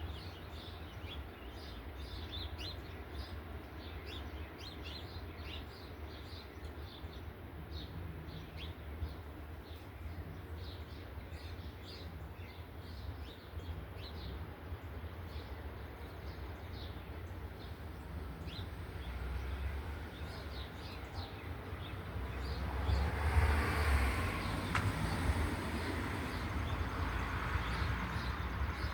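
Small birds chirping, many short high chirps repeated over a steady low rumble. About two-thirds of the way in, a louder rushing noise swells for several seconds.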